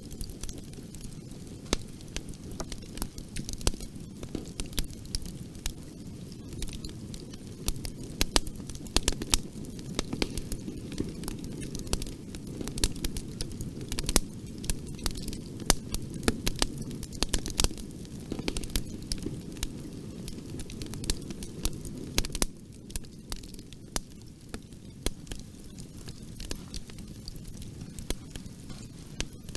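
Wood fire crackling in a fireplace: many sharp, irregular pops and snaps over a steady low rush of burning, which grows quieter about three-quarters of the way through.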